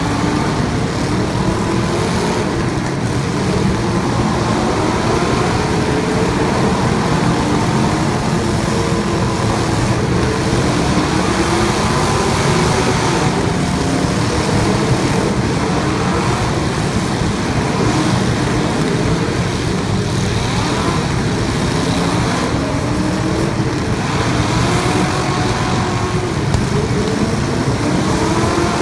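Several race car engines running hard at once, their pitches rising and falling as they speed up and slow down, over a steady roar.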